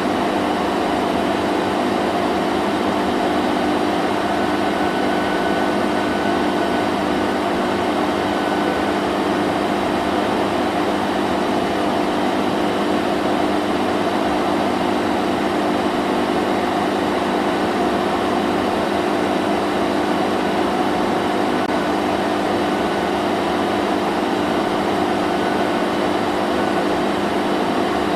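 Vacuum cleaner running steadily: a constant motor hum with an even rush of air, no change in pitch or level.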